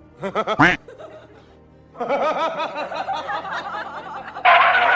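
Laughter with music: short wavering snickers near the start, then a longer stretch of laughing with music, louder near the end.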